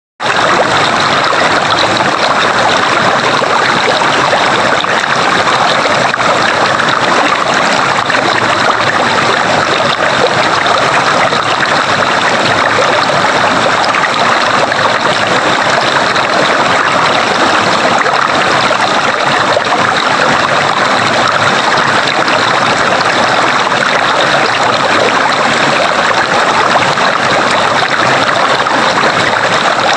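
Flowing stream water, a steady rushing and trickling that cuts in abruptly from silence at the start.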